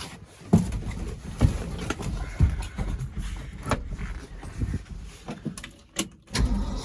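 1971 Ford F600 truck engine, with a loose connecting rod and a holed, JB-Weld-patched block, catching and running roughly with irregular knocks, fading almost to a stall about six seconds in, then picking up again near the end: it will not stay running.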